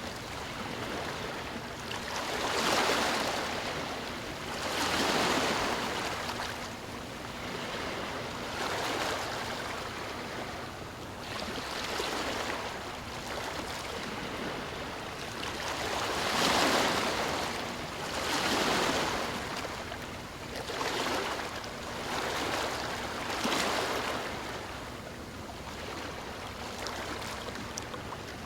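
Ocean waves washing ashore: a steady hiss of surf that swells and ebbs every couple of seconds, with stronger breakers about three seconds in, about five seconds in, and twice in the second half.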